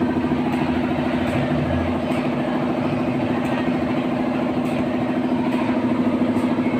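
Engine idling steadily with an even, unchanging drone, likely a car running through a freshly welded bi-flow exhaust muffler.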